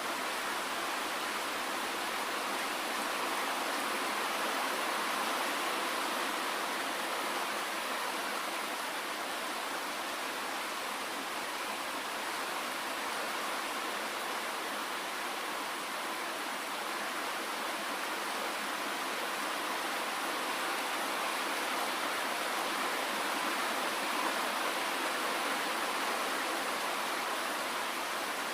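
Steady rainfall: an even, constant hiss with little deep rumble, no single drops standing out and no thunder.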